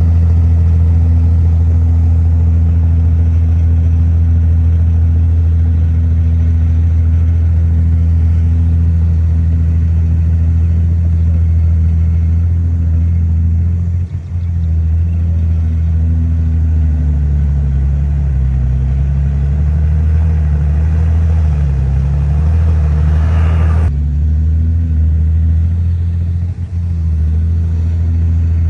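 Heavy diesel engine of an earthmoving machine running loudly and steadily, its pitch wavering up and down as the load changes from about halfway through. A brief rising higher sound cuts off abruptly a few seconds before the end.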